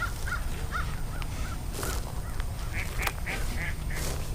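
Birds calling: a run of short, repeated calls, about three a second, in the manner of distant waterfowl or a flock. A few sharp clicks come through about halfway and near the end.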